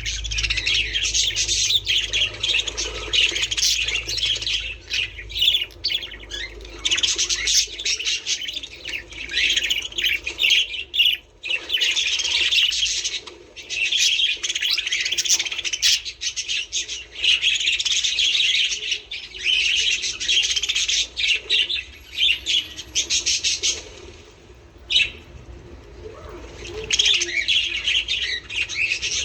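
Budgerigars chattering and warbling with quick, dense chirps and squawks, with a brief lull near the end.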